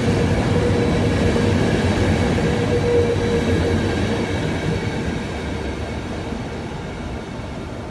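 Trenitalia passenger coaches rolling past on the rails with a steady rumble and a thin steady whine. The whine fades out about six seconds in, and the rumble grows slowly fainter as the train pulls away.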